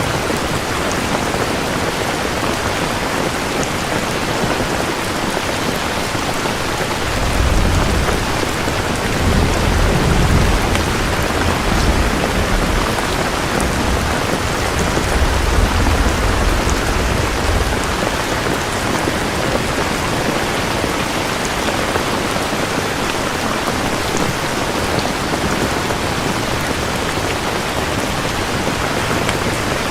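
Steady heavy rain falling. A low roll of thunder rumbles from about a quarter of the way in until just past the middle, then dies away, leaving only the rain.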